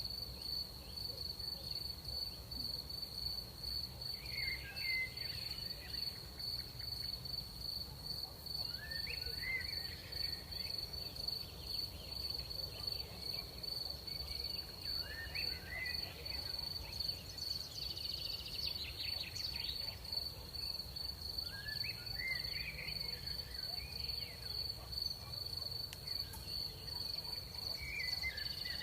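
Crickets chirring in a steady, unbroken high-pitched trill over a faint low rumble of night air. A short warbling call from another animal recurs about every five to six seconds.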